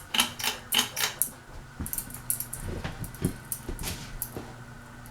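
Quick clicks and light metallic rattling from hands working the ceiling fan's parts, thickest in the first second or so, over a faint steady hum.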